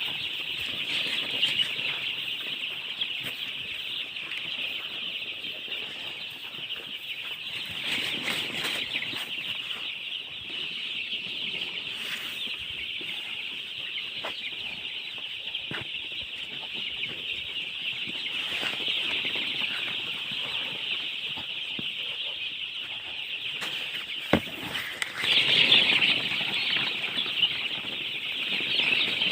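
A brood of baby chicks peeping continuously, many high chirps overlapping into a dense chorus. A sharp click comes about 24 seconds in, and the peeping grows louder just after.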